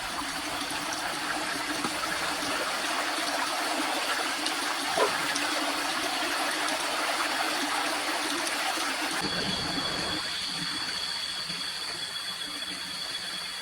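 Water running steadily, like a stream. About nine seconds in the sound changes, and two steady high-pitched tones join it.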